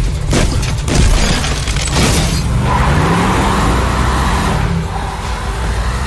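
Film sound effects: a few sharp hits in the first second, then a muscle car's engine revving up, rising in pitch as the car pulls away.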